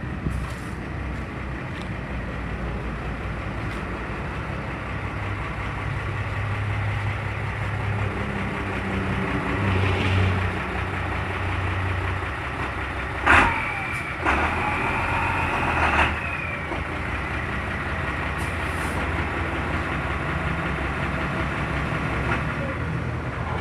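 Diesel engine of a heavy tandem-axle tronton truck running as the truck pulls away, its note growing louder for a few seconds. Past the middle a loud high-pitched tone sounds twice in quick succession, for about three seconds in all.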